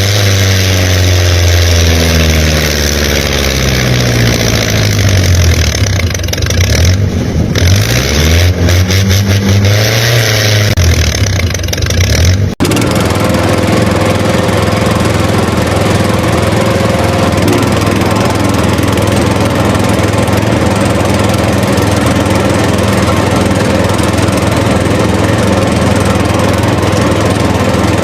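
Motor running with a pitched drone that sinks and then rises in pitch over the first dozen seconds. After an abrupt cut about twelve seconds in, it runs steadily at an even pitch.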